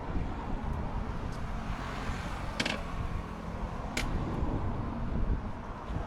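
BMW F800GS parallel-twin engine running at low speed with a low rumble, with two sharp clicks about a second and a half apart midway through.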